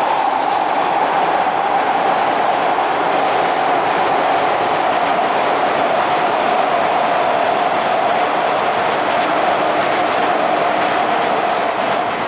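JR East 185 series electric train running: a steady rumble of wheels on rail with a high hum that slowly sinks in pitch, and faint rail-joint clicks in the second half.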